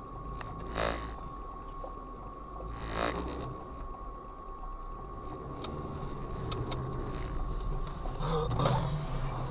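Low, steady rumble of a car's cabin, with a faint steady high whine throughout and a few brief louder sounds about a second in, about three seconds in, and near the end.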